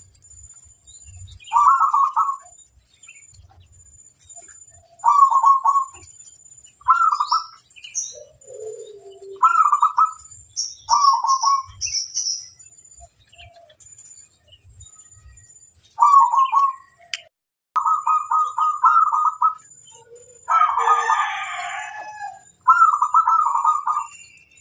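Zebra doves (perkutut) cooing: short, rapid trilled phrases about a second long, repeated a dozen times with pauses between, several close together near the end. A rooster crows once about 20 seconds in, and a small bird chirps briefly around 11 seconds.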